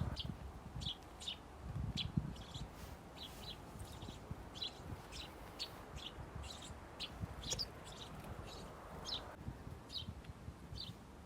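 Small songbirds chirping at a bird feeder: a quick series of short, high chirps, two or three a second, without a break. Low thumps and rumble underneath, loudest near the start and about two seconds in.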